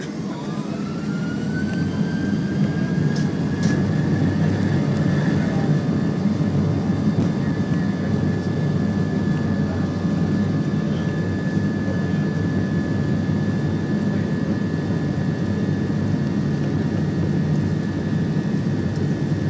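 Airliner jet engines spooling up to takeoff thrust, heard from inside the cabin. A steady low roar runs under an engine whine that rises in pitch and loudness over the first few seconds, then holds steady.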